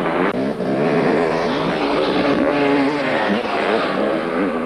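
Several motocross motorcycle engines revving at once, their overlapping pitches rising and falling as the bikes accelerate and shift.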